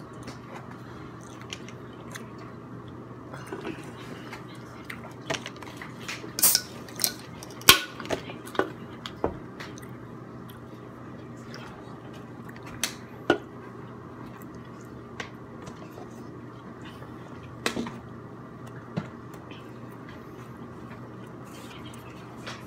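Close-up eating sounds: a person chewing a taco, with scattered sharp, wet mouth clicks and smacks. The loudest come in a cluster about six to nine seconds in, with a few more later on.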